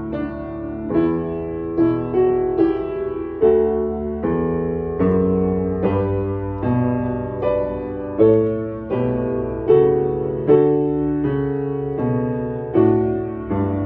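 Piano playing a slow, even succession of chords and notes, each one struck and then fading, as the accompaniment to a beginner string-method piece.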